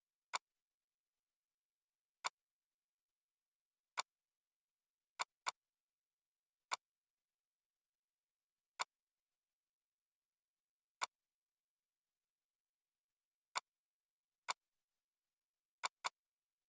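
Computer mouse clicks, sharp and single at uneven intervals, twice as a quick double-click, with dead silence between them.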